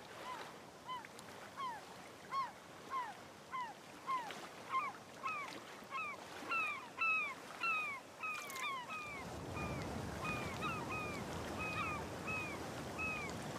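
Birds calling over and over, short arching calls about one and a half a second, with a steady wash of outdoor shoreline background that grows louder about nine seconds in.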